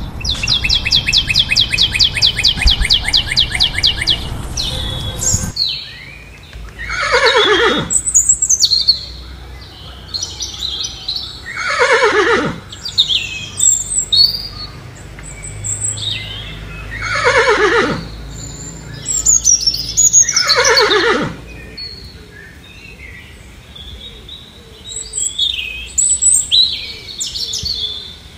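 Horse whinnying four times, each neigh a long call falling in pitch. Before it comes a rapid rattling pulse of about four seconds, and small bird chirps follow near the end.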